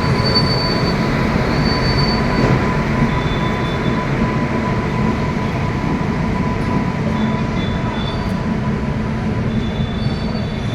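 Howrah–New Delhi Poorva Express passenger train rolling into the station: a steady rumble of the coaches passing, with brief high squeals of wheels or brakes now and then as it slows.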